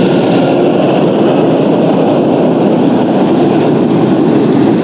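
Yamaha Super Ténéré motorcycle cruising at highway speed: a loud, steady rush of wind and road noise over the engine's drone, heard from the moving bike.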